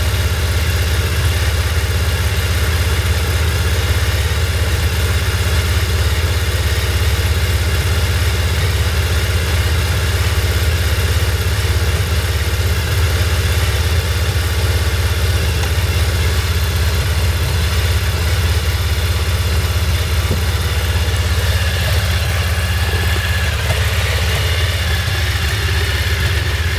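2002 Suzuki Hayabusa's inline-four engine idling steadily on the choke while still cold from a cold start.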